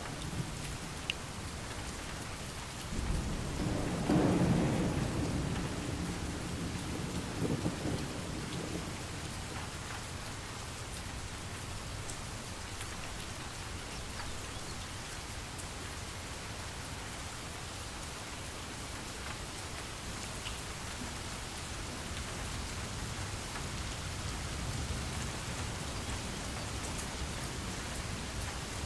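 Steady rain falling, with a roll of thunder that starts about three seconds in, peaks a second or two later and rumbles away over the next few seconds.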